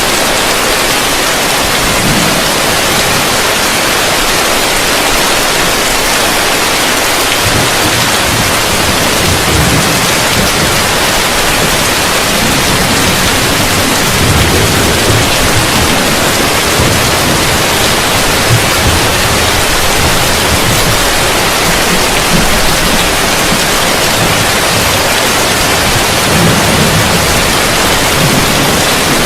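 Heavy rain falling on a roof, heard from underneath as a steady, dense hiss. A low rumble swells and fades through the middle and again near the end.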